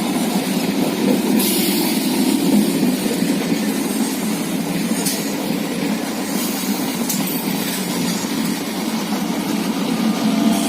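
Indian Railways suburban local passenger train running, a steady rumble with a few sharp clicks from the wheels and track.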